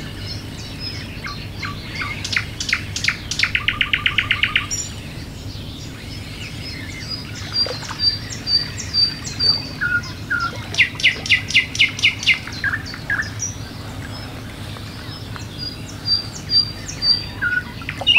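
Songbirds singing: scattered high chirps and calls, with two rapid trills of quickly repeated notes, about four seconds in and again around eleven seconds, over a low steady hum.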